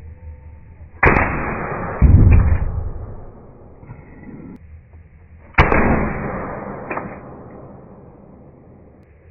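Two shots from an Umarex TP50 .50-calibre CO2 pistol, about four and a half seconds apart, each a sharp crack with a decaying tail. About a second after the first shot comes a heavier, deep thud, the loudest sound here, and a smaller sharp knock follows a little over a second after the second shot.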